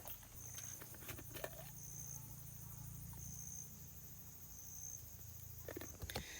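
Insects calling faintly: a steady high trill with a louder pulse every second or so, over a low steady hum, with a few faint clicks.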